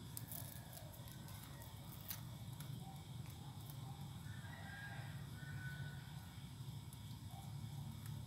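Faint bird calls over a steady low background rumble, with a few light clicks in the first couple of seconds.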